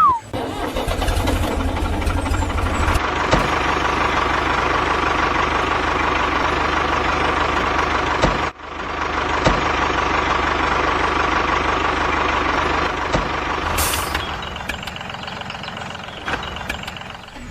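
A small motor or engine running steadily, with a faint steady whine. It breaks off abruptly about eight and a half seconds in, then resumes, and fades near the end.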